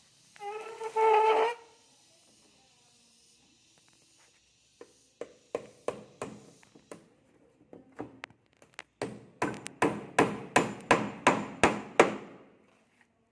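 Hammer blows on wood: a few scattered knocks, then a fast, even run of about a dozen strikes near the end, which are the loudest part. About a second in there is a short, loud pitched whine.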